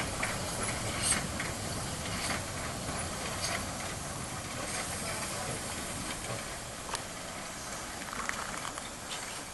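Narrow-gauge steam locomotive of the Harzer Schmalspurbahn hissing steam as it arrives, with a few scattered sharp metallic clicks. The sound gets slowly quieter.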